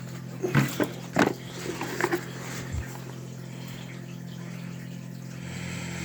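A few sharp knocks and clicks in the first couple of seconds, as of a small plastic space heater being handled and turned over, over a steady low hum.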